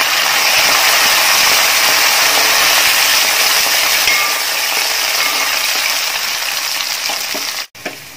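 Sesame oil sizzling hard as sliced garlic, green chillies, ginger and freshly added curry leaves fry in it, stirred with a wooden spatula in a wide metal pan. The sizzle cuts off abruptly near the end, leaving a much fainter sizzle.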